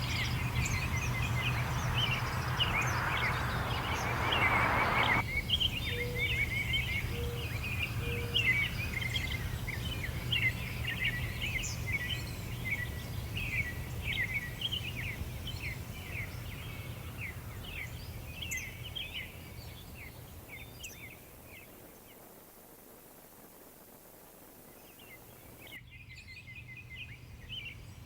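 A chorus of small songbirds chirping and twittering over a steady low background rumble. A rush of noise in the first few seconds cuts off suddenly, and the whole scene grows quieter after about twenty seconds as the rumble fades out.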